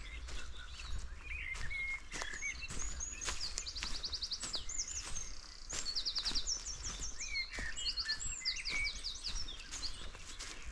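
Small songbirds calling in the forest: short chirps and several quick, high trilled series of notes, over footsteps on the forest floor.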